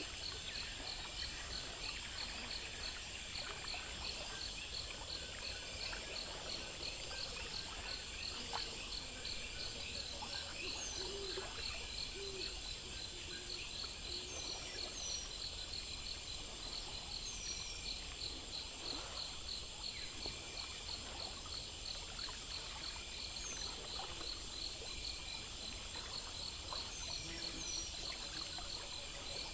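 A night-time chorus of crickets and other insects trilling steadily in regular pulses, with short, high, falling chirps every couple of seconds over a low background rumble.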